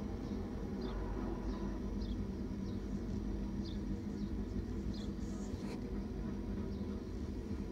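A small bird giving short, high chirps about once a second over a steady low mechanical hum.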